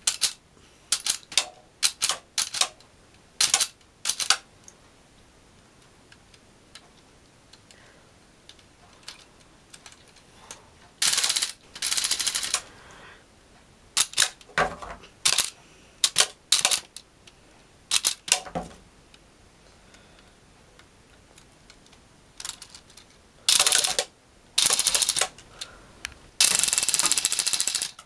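LEGO rubber-band gun firing: a string of single sharp snaps as it is shot semi-automatically, mixed with rapid rattling bursts of a second or more on full auto, several times over.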